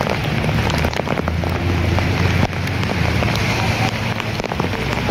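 Heavy rain pouring down on a street, a dense patter of drops and splashing over a steady low rumble.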